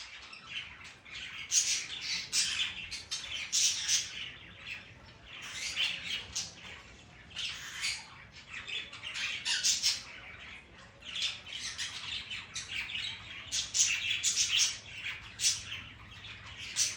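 Sun conure squawking: harsh, high-pitched calls repeated in irregular clusters, loudest around the middle and again near the end.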